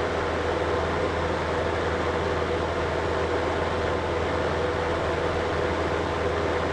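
Window unit air conditioner running steadily: even rushing air with a low hum and a steady mid-pitched tone from the motor.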